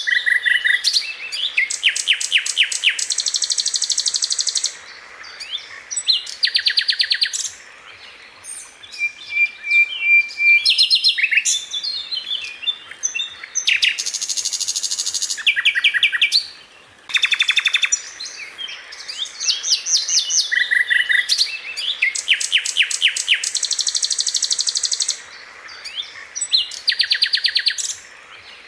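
Sikatan Londo flycatcher singing: a string of high-pitched phrases, each a rapid, tightly packed trill of repeated sharp notes lasting a second or two, with short pauses between them.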